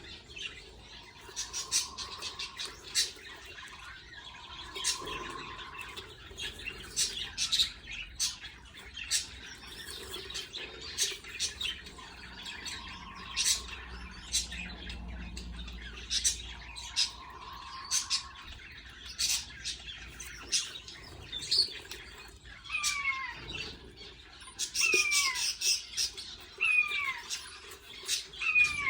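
Budgerigars chirping and chattering: a steady run of short, sharp chirps, with a handful of falling whistled calls near the end.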